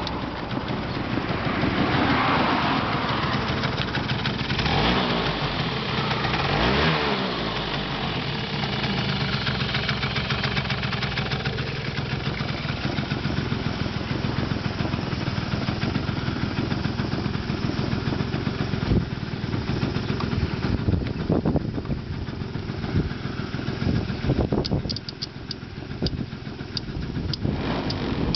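Yamaha Axis 90 scooter's small two-stroke engine running, revved up and down a few times early on, then idling unevenly, with a few sharp knocks near the end.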